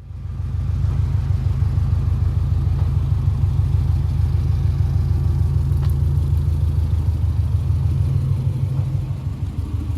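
A car driving, its engine and road noise making a steady, loud low rumble that starts suddenly and holds even throughout.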